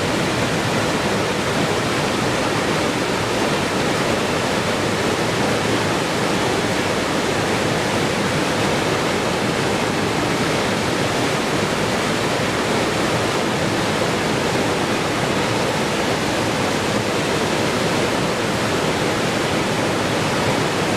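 Steady, unbroken rush of flowing water, like a waterfall, played as white noise.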